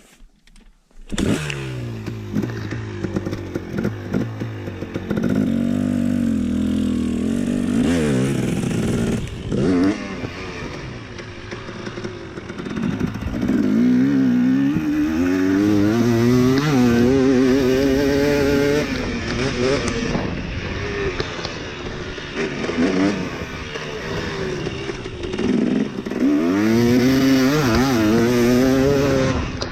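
Dirt bike engine coming in suddenly about a second in, then revving hard again and again, its pitch climbing with each pull and dropping back between them.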